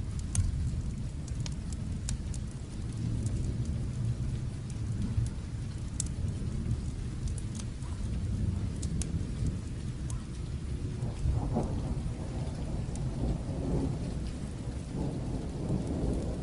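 Steady rain with a low rumble of distant thunder, and scattered sharp crackles and pops from a fireplace fire.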